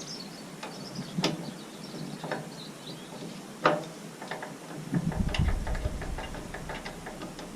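Metal clinks and knocks of hand tools working on the roller's bearing housing and bolts: a few sharp knocks, the loudest about halfway in, then a run of light quick ticks, with a low rumble in the second half.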